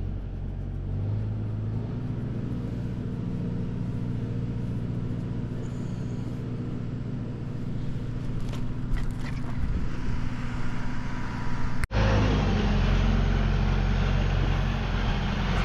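Tractor engine running steadily with a low, even drone. It breaks off abruptly about twelve seconds in and comes back louder.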